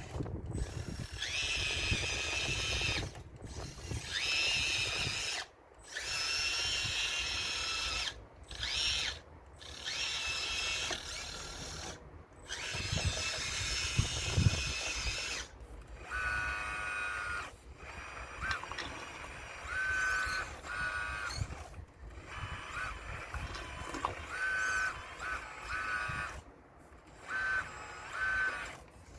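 Electric motors of a radio-controlled Caterpillar model excavator whining in repeated bursts, starting and stopping every second or two as the machine is worked. There is one sharp knock a little before halfway.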